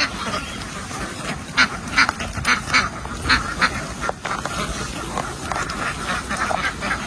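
A large flock of domestic ducks quacking, many short overlapping calls over a steady din.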